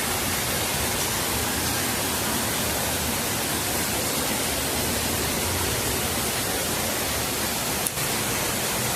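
Steady rush of water falling and dripping from a rock overhang, sounding like rain.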